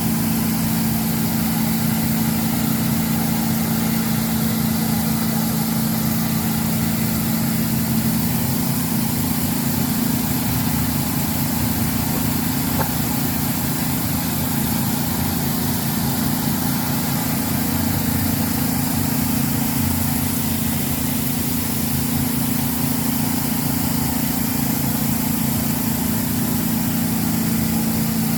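Steady engine hum, a constant low drone that does not change.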